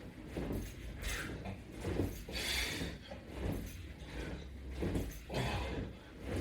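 Exercise hardware rattling and clinking in a repeating rhythm, about one burst every second or two, as a latch bar rig with resistance straps is worked through repeated ab reps.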